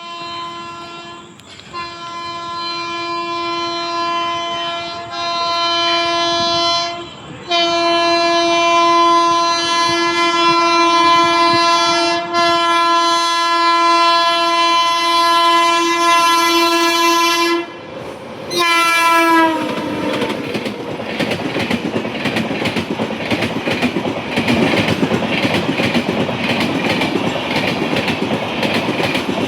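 Indian Railways locomotive sounding its horn in three long blasts, the middle one held for about ten seconds. The pitch drops at the end of the last blast as the locomotive passes. Then the wheels of the train clatter past steadily over the rail joints.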